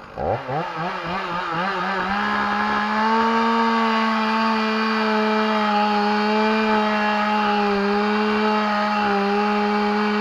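Chainsaw revved up and down a few times, then held at a steady full throttle as it cuts through the trunk of a small tree being felled.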